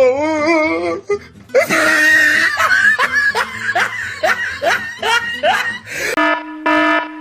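Laughter with a wavering pitch over music, followed by a run of short rising squeals. About six seconds in, a repeated electronic beeping starts.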